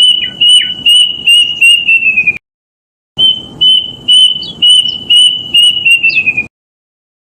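Plaintive cuckoo (kedasih) singing its song: two runs of clear, even whistled notes, about three a second, each run speeding up and dropping a little in pitch at its end. It comes from a lure recording whose runs start and stop abruptly, with dead silence between them about two and a half seconds in.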